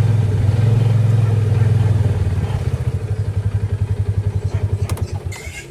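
An engine idling steadily, then being switched off: its firing breaks into separate slowing pulses and dies away about five seconds in, with a sharp click just before it stops.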